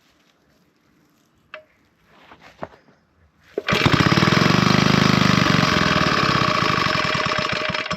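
Villiers Mark 9 stationary engine being turned over with a few clicks, then firing about three and a half seconds in and running fast with a rapid, even beat, its level sagging near the end as it struggles to keep going.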